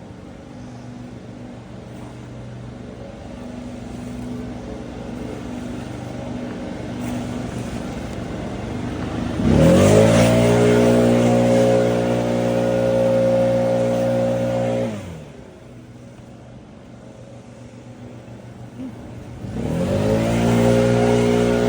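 Small petrol engine running at low speed, then throttled up about halfway through to a steady high speed. It holds there for about five seconds, drops back to idle, and revs up and holds again near the end.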